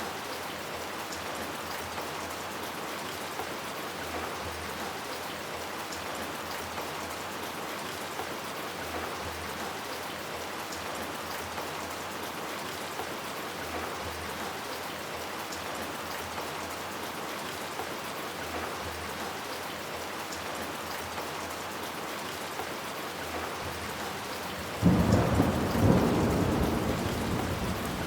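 Steady heavy rain falling. Near the end a sudden loud clap of thunder breaks in and rumbles on, slowly fading.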